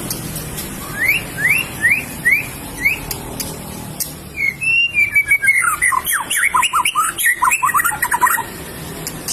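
White-rumped shama (murai batu) singing in full song: five rising whistled notes, then after a short pause a fast run of falling notes, about seven a second, for roughly four seconds.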